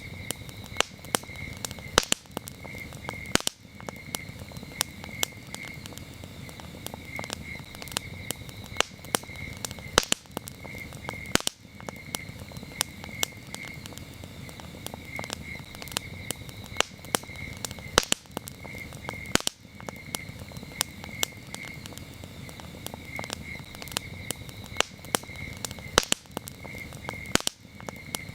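Campfire crackling, with irregular sharp pops and snaps over a low hiss of burning wood, while crickets chirp steadily in pulsing trills.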